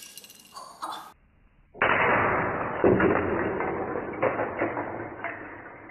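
Dropped Lego cement mixer set: plastic bricks clattering as pieces scatter, then about two seconds in a louder, duller crash of plastic parts with scattered clicks that slowly dies away.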